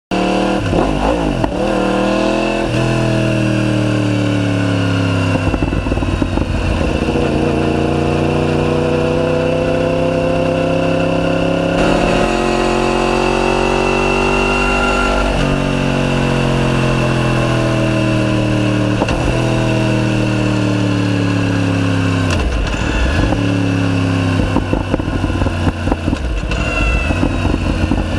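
Yamaha YZF-R1's crossplane inline-four through a decatted Akrapovic full titanium exhaust, pulling under acceleration with its pitch climbing, one gear change about twelve seconds in, then rising again before the pitch slowly falls as it rolls off. The sound turns rougher and more uneven near the end.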